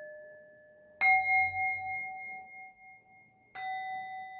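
A metal singing bowl struck twice, about a second in and again about two and a half seconds later. Each stroke rings on with a clear, steady tone and slowly fades. The fading ring of an earlier strike is heard at the start.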